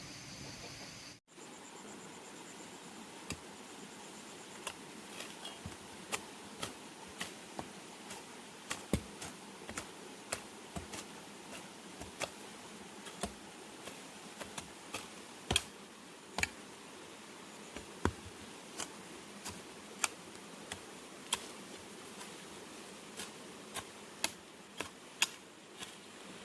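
Short, sharp knocks and clicks at irregular intervals, roughly one or two a second, over a steady hiss: hand work on bamboo, such as cutting, splitting or tapping stems.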